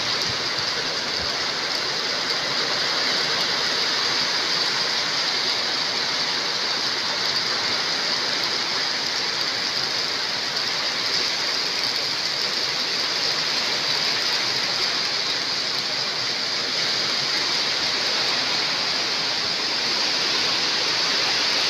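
Heavy rain falling: a steady, even hiss of downpour.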